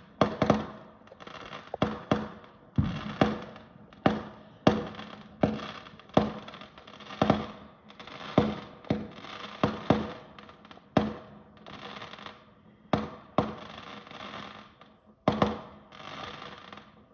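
Fireworks going off in a rapid barrage: a run of about sixteen sharp bangs at uneven spacing, each trailing off quickly.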